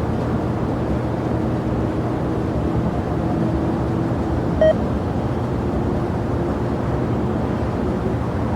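Steady rumble of jet airliner engines, with one short beep about halfway through.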